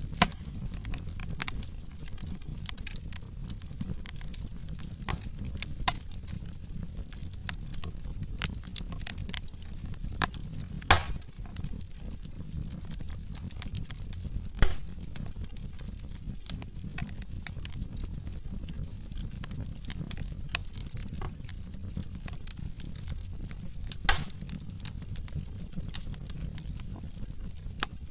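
Wood fire burning in a fireplace: a steady low rumble of flame with frequent small crackles, and a few louder pops, about 11, 15 and 24 seconds in.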